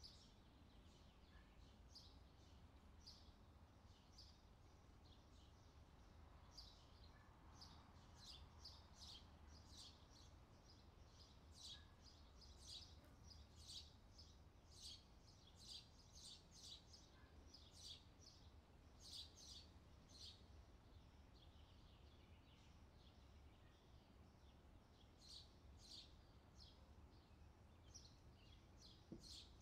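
Very faint outdoor ambience in which a bird chirps over and over: short high chirps, one or two a second, stopping for a few seconds past the middle and then resuming, over a low steady rumble.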